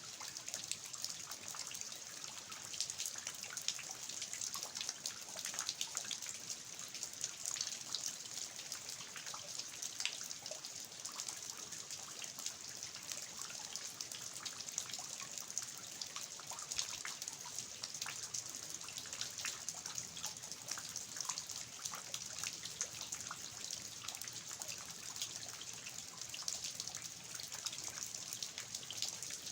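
Steady rain falling on a garden, with runoff dripping and trickling from the eaves of an old house's roof. Countless small drops tick through an even hiss that neither swells nor fades.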